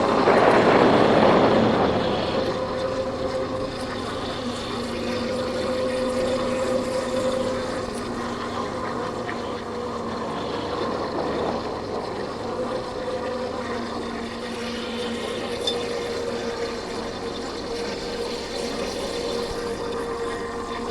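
Yamaha Factor 150's single-cylinder engine running at a steady cruise, with wind noise over it. A louder rush of noise swells and fades over the first two seconds.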